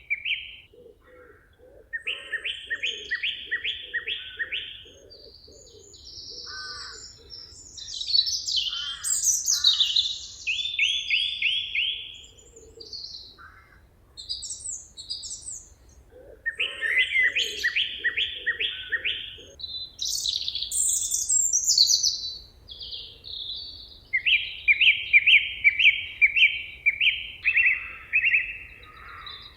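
Songbirds singing in a forest: one bird repeats a phrase of rapid, evenly spaced notes every several seconds, and other birds add higher chirps and short sweeping calls between the phrases.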